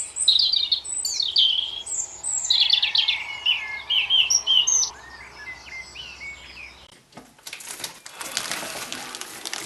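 Birds chirping and calling in quick high-pitched phrases for about the first five seconds. Then, after a brief lull, a dense rapid scratching and rustling: birds moving about inside a chimney where they are building a nest.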